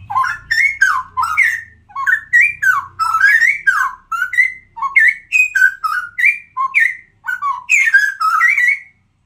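Straw-headed bulbul (cucak rowo) singing: a loud, rapid run of rich whistled notes sliding up and down, stopping near the end.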